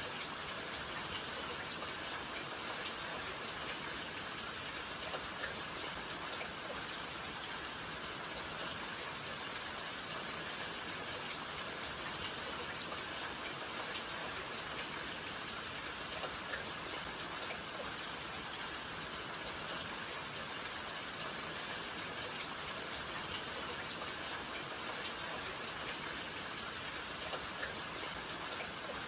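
Steady rain falling, an even hiss dotted with fine, crisp drop patter.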